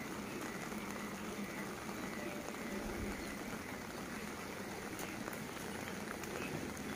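Light rain falling steadily: an even hiss of drizzle with no breaks.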